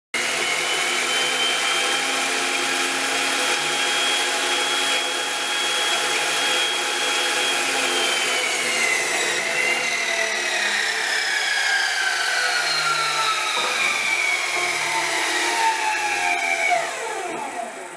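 Electric power tool motor running with a steady high whine. From about halfway its pitch sags, then drops fast as the motor spins down near the end.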